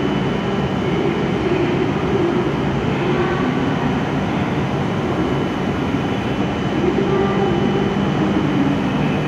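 A W7 series Shinkansen train standing at the platform with its onboard equipment running, giving a steady hum with a thin high tone above it.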